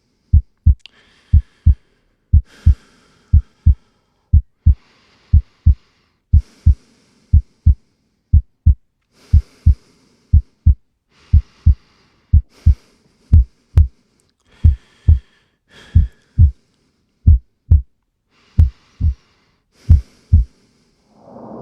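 A heartbeat: slow, low double thumps, about one pair a second.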